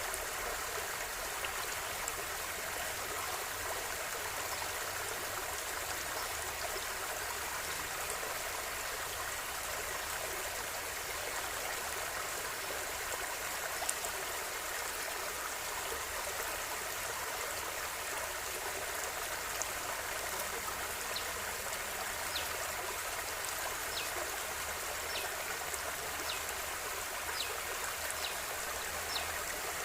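River water flowing in a steady, even rush, with a few faint high ticks in the last third.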